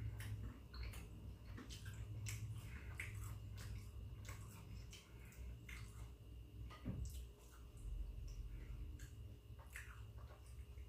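Close-miked chewing of food: irregular wet mouth smacks and clicks, over a low steady hum.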